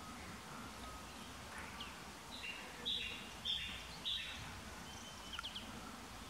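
A bird calling: a run of about four short, flat whistled notes starting about two seconds in, then a few quick chirps. Under it is a steady low background noise.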